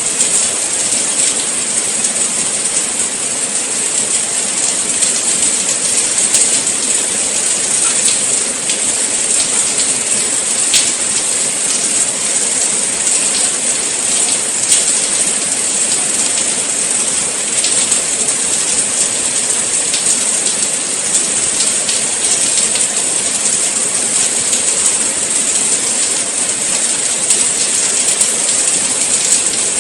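Steady rain falling: a dense, even hiss with the faint patter of individual drops.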